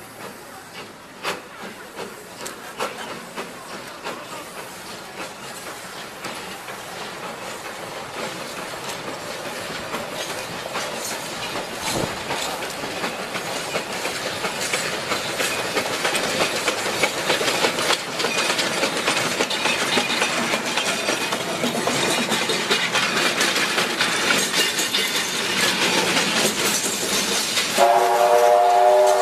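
C2 narrow-gauge steam locomotive and its train running along the rails, a clatter of wheel and rail clicks growing steadily louder as it comes closer. Near the end its whistle sounds, a held chord of several tones.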